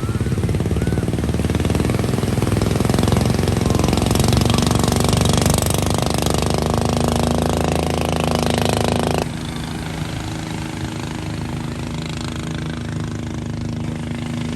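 Motor vehicle engine running steadily with a rapid pulsing rattle. The sound drops abruptly to a quieter, steadier hum about nine seconds in.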